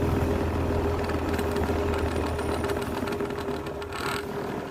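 A grinder's electric motor running with a steady hum, used to sharpen a blunt metal drill bit. A short scraping hiss comes about four seconds in.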